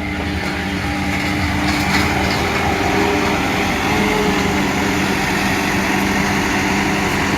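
Road roller's diesel engine running steadily, growing slightly louder over the first couple of seconds and then holding an even level.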